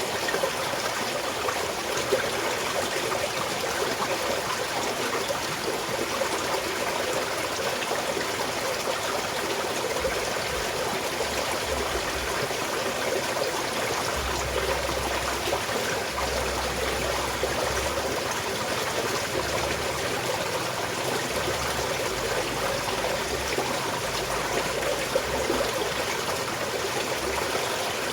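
Small mountain stream flowing steadily, an even trickling and babbling of water over stones.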